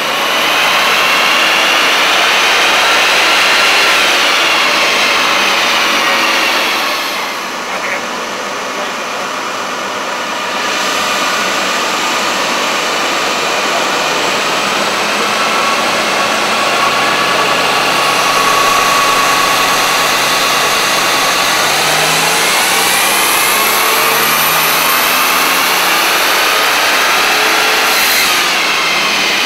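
Twin-turbo 3.8-litre V6 of a Holden VN Commodore wagon run hard on a chassis dyno: the revs climb over the first few seconds and back off, the engine holds steadier for a while, then a long pull from about 18 seconds winds the revs steadily higher before they drop away suddenly near the end.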